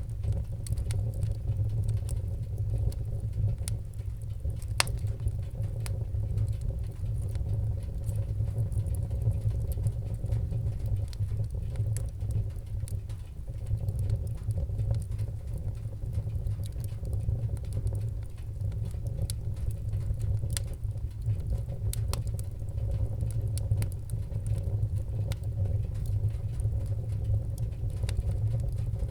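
Wood fire in a fireplace crackling: many scattered sharp pops and snaps over a steady low rumble.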